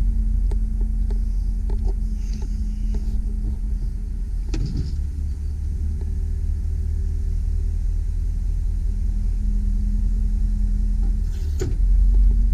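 2001 GMC Sierra 3500 HD bucket truck running steadily: a low rumble with a steady hum, a few light clicks, and a brief clatter about four and a half seconds in.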